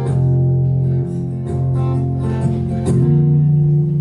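Acoustic guitar playing the introduction to a song: chords struck and let ring at a slow, even pace.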